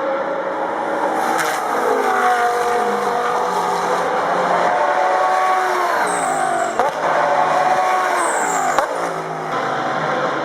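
Audi R8 LMS Ultra GT3 race cars' V10 engines running hard on track, the engine note gliding up and down through gear changes. Twice in the second half a sharp crack on a shift is followed by a rising note.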